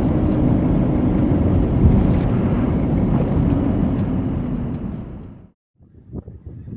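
Steady engine and road rumble of a pickup truck carrying a camper, heard while driving, fading out about five seconds in. After a short break, uneven gusts of wind buffet the microphone.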